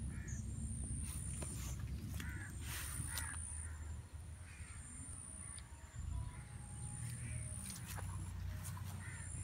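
Birds calling again and again in short calls over a steady low rumble, with a few sharp rustles now and then.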